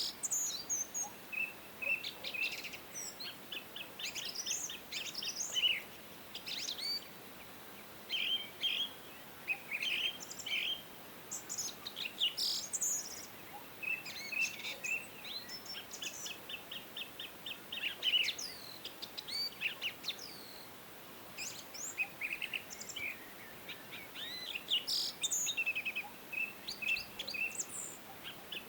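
Several songbirds singing and chirping together, with quick rapid-fire trills and short whistled notes overlapping throughout, over a faint steady background hiss.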